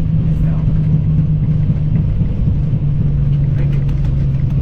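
Airliner cockpit during the landing rollout: steady low rumble of the engines and the wheels on the runway, with a low hum that drops slightly in pitch about three seconds in.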